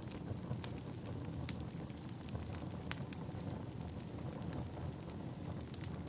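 Firewood burning: a steady low rumble with sharp crackles and pops now and then, the loudest about one and a half and three seconds in.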